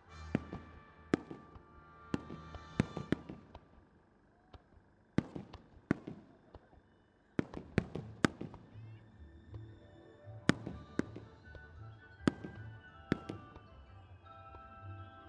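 Sharp firework bangs at uneven intervals, some followed by a low rumble, over music playing from loudspeakers.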